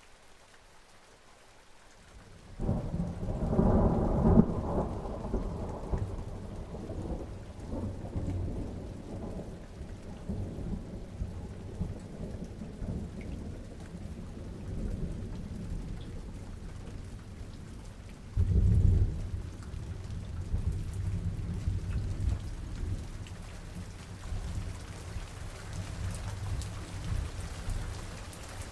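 Rain falling steadily with thunder from a summer storm: a long rolling rumble begins about two and a half seconds in and fades over several seconds, and a second, shorter clap of thunder comes a little past the middle.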